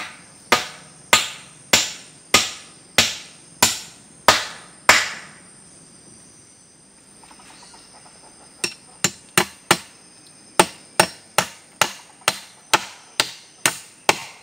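Repeated blows of a hand tool striking wood: about nine even strikes, a pause of a few seconds, then a second, faster run of about a dozen. Crickets or other insects keep up a steady high trill underneath.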